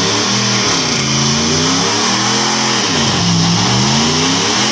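A vehicle engine revving again and again, its pitch rising and falling about four times, over a steady hiss.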